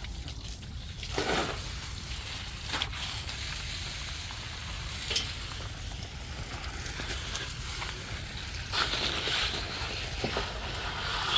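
Water jet hissing as it is sprayed onto flood mud, wetting it so it loosens, with a few brief louder swells as the spray shifts.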